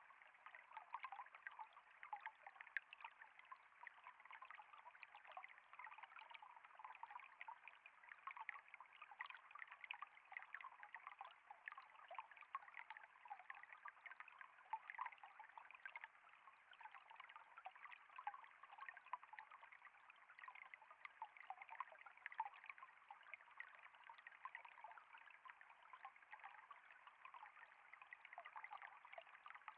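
Water flowing and trickling steadily and faintly, a continuous patter of many small splashes.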